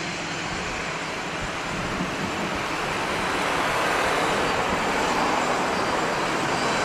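Jet engines of a Boeing 737 airliner on its take-off run, a steady rushing roar that grows gradually louder.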